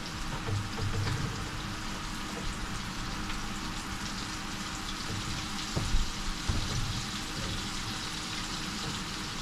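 Fish frying in hot oil: a steady sizzling hiss, with one brief knock about six seconds in.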